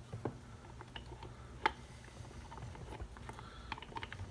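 Light clicks and taps of small chainsaw parts and a piston support tool being handled, with one sharper click about a second and a half in, over a steady low hum.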